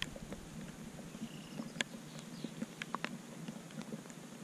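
Scattered raindrops tapping irregularly on the camera, a few sharp ticks a second over faint rain hiss.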